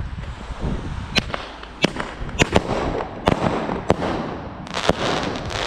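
Fireworks going off: about eight sharp, separate bangs from about a second in, turning into dense crackling near the end.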